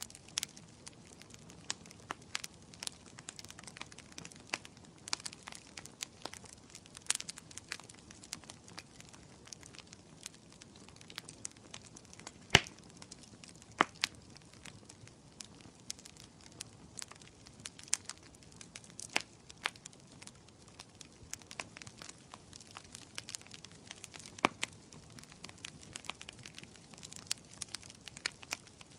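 Wood fire crackling in a fireplace: irregular sharp pops and snaps over a soft steady hiss of flame, with a few louder pops about halfway through.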